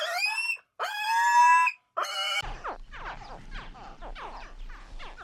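Animal calls: three short high-pitched calls, each rising in pitch, followed by about three seconds of many quick falling chirps over a faint low hum.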